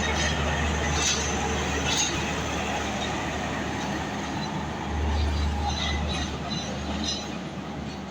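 Train running on the tracks: a steady low rumble that swells about five seconds in, with a few sharp clicks.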